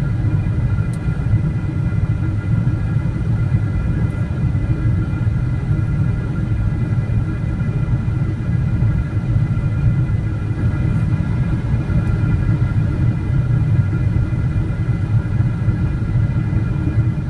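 Steady low rumble inside the cabin of a Boeing 777-300ER, with a faint steady hum of tones above it and a couple of faint clicks.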